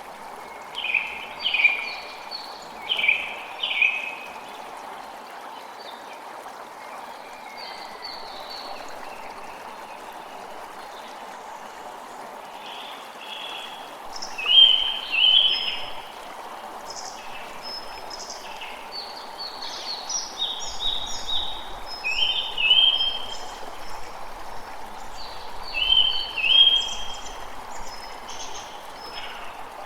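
A creek running steadily, with birds chirping in short, repeated phrases over it. The chirps come in clusters: about a second in, around the middle, and again near the end.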